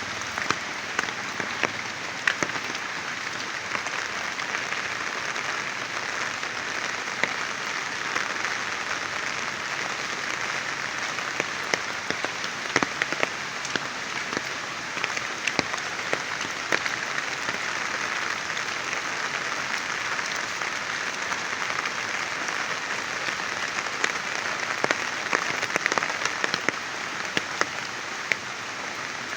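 Heavy rain falling steadily, a dense hiss with many sharp individual drop impacts through it.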